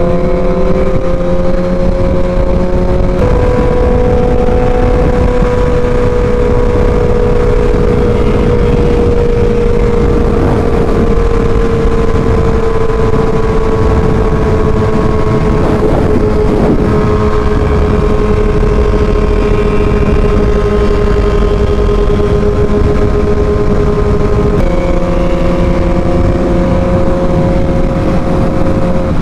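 Motorcycle engine running steadily at cruising speed, with heavy wind rush on the rider's microphone. Its pitch drops slightly a few seconds in, sags slowly, then steps back up near the end.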